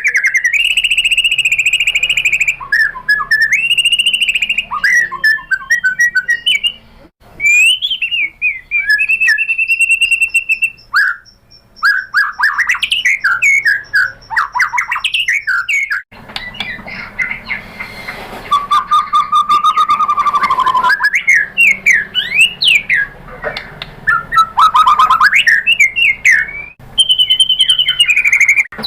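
White-rumped shama song: loud varied phrases of held whistles, rapid sweeping warbles and fast chattering notes, delivered almost without pause.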